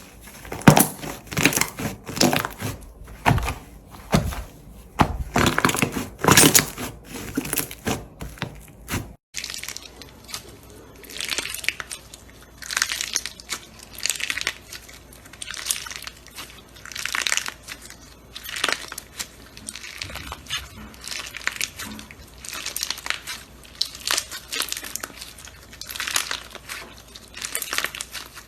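Slime being squeezed and pressed by hand, giving crackling, squishing sounds. About nine seconds in there is a cut, after which the presses come slower, roughly one a second.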